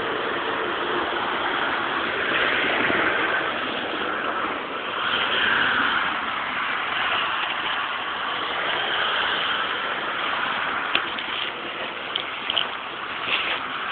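Vehicle engines running steadily under a dense hissing noise, with a few short sharp clicks near the end.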